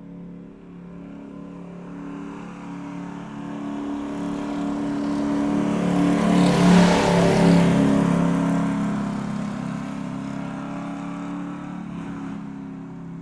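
A motor vehicle driving past: a steady engine hum grows louder to a peak about seven seconds in, then fades as it moves away.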